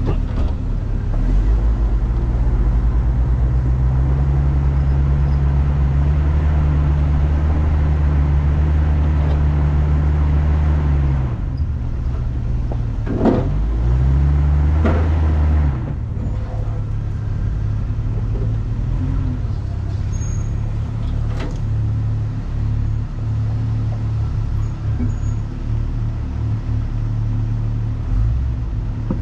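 Off-road vehicle engine pulling steadily on a rough trail, its revs held level for about ten seconds, then dropping, briefly rising again and falling to an uneven lower running about 16 s in. A single sharp knock comes about 13 s in.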